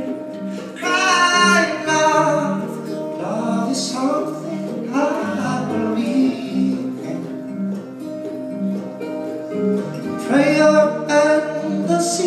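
Live band music: guitar chords with singing voices over them, the vocal lines swelling about a second in and again near the end.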